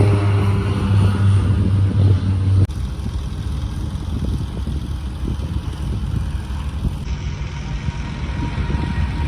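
Propeller aircraft engines running with a steady pitched drone, cut off abruptly about two and a half seconds in, followed by a steady low rumble.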